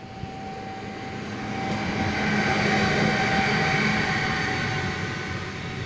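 Electric freight locomotive of the Siemens Vectron type passing close with a container train. A steady electric whine and a growing rumble build up over the first couple of seconds as it comes by. The container wagons then roll past, their wheels running on the rails.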